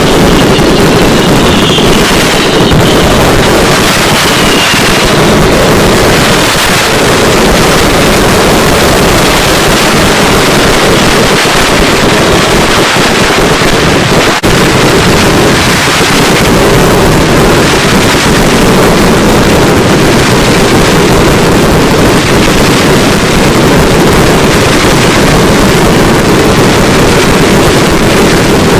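Fireworks: a dense, continuous barrage of firecracker bangs merging into one steady, very loud roar, with a few brief whistles in the first few seconds.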